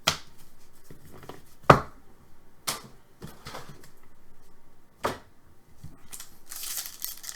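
Hockey trading cards being handled and sorted by hand: a few sharp clicks and taps, the loudest about two seconds in, then a rustle of card and plastic near the end.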